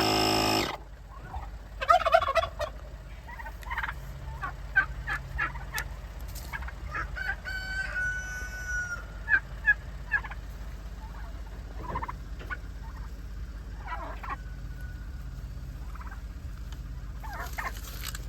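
Turkeys gobbling and calling. Short calls come scattered throughout, loudest in a burst about two seconds in.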